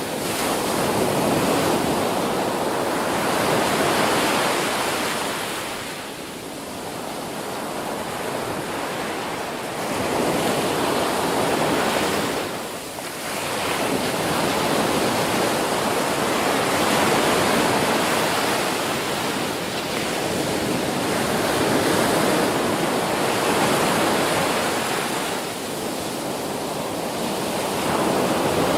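Ocean surf breaking on a beach: a continuous rush of waves that swells and ebbs, easing briefly about six, thirteen and twenty-six seconds in before building again.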